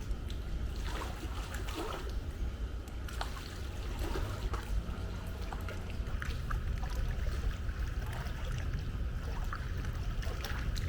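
Pool water splashing and trickling, with many small irregular splashes over a steady low rumble.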